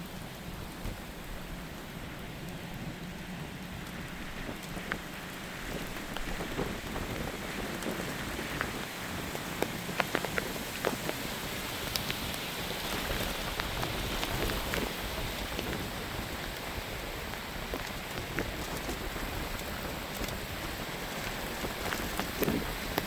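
Steady rain with many small drop impacts. The rain grows heavier about six seconds in.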